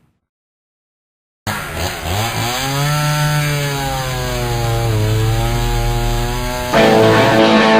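Dead silence for about a second and a half, then a small motor drones steadily, its pitch sagging in the middle and rising again. It cuts off sharply near the end as strummed guitar music starts.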